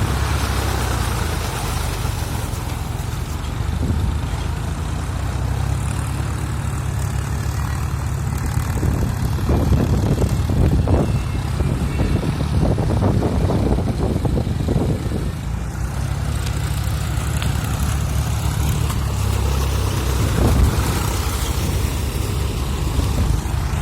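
Tractor engine running steadily, a low even throb.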